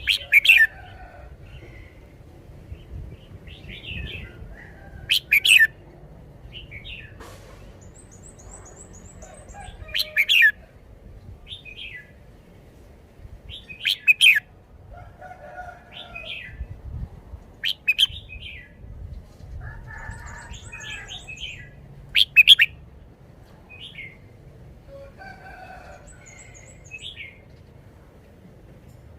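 Red-whiskered bulbul singing loud, short whistled phrases about every four seconds, with softer chirps in between. Faint, very high trills come from another small bird.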